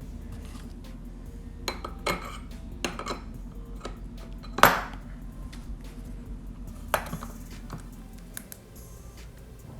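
Light metallic clinks and knocks from the scribing tool and floorboard being handled, a few scattered strikes with the loudest about halfway through, over a steady low hum.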